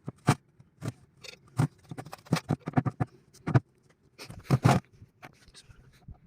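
Irregular metal clicks, taps and scrapes of hand tools and parts being handled on a Cummins 4BT engine during a timing-cover oil seal change, with a louder cluster of knocks about four and a half seconds in.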